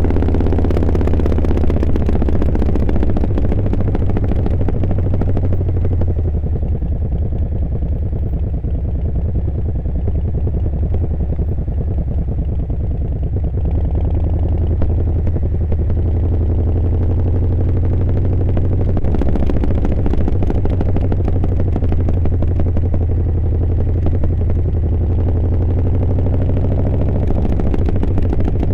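Harley-Davidson V-twin motorcycle engine running on the move. Its low, steady note dips and picks up again a few times as the throttle and speed change.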